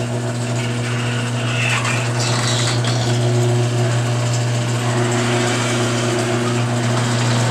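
Garage door going up on its electric opener: a steady motor hum under the loud running noise of the door's rollers and joints, which have never been lubricated in about ten years.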